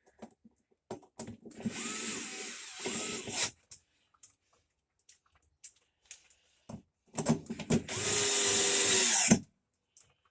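Power drill running in two bursts of about two seconds each, separated by a few seconds of small clicks and knocks.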